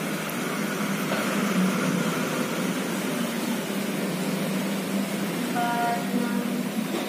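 Steady background noise with a constant low hum, and a short pitched tone about five and a half seconds in.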